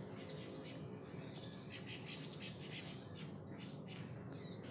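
Faint birdsong: small birds chirping in quick runs of short, high notes, several a second, over a soft steady background hiss.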